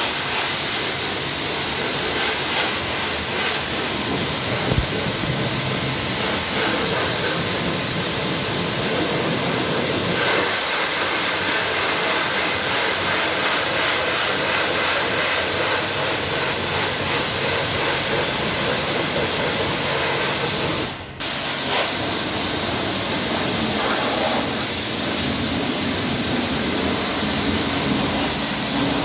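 High-pressure washer spraying water, a steady hiss that breaks off for a moment about two-thirds of the way through.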